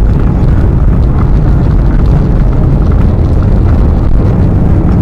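Boeing 737-800's CFM56 jet engines in reverse thrust on the landing rollout: a loud, steady roar heard from inside the passenger cabin.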